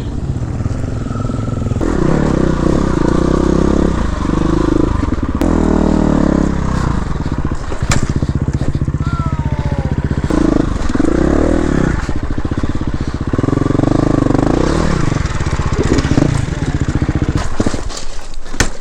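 Dirt bike engine revving up and down again and again, its pitch rising and falling with the throttle, with a few sharp knocks. It cuts off suddenly at the end.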